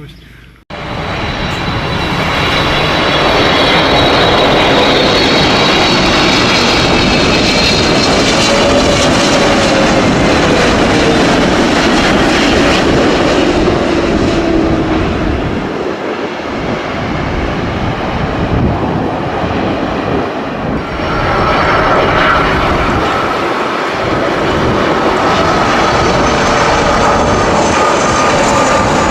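Airplane engines running loud and steady, a dense rush with whining tones over it, starting abruptly just under a second in. One tone slowly falls in pitch around ten seconds in, and the pattern of tones changes about 21 seconds in.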